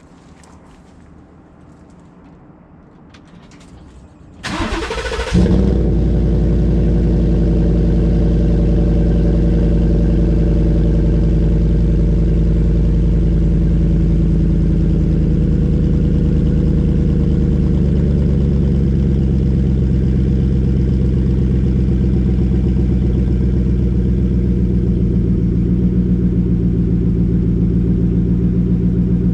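2018 Ford F-150's 5.0 L V8 through an MBRP cat-back exhaust on a cold start: the starter cranks briefly about four seconds in, the engine catches, and it settles into a steady idle.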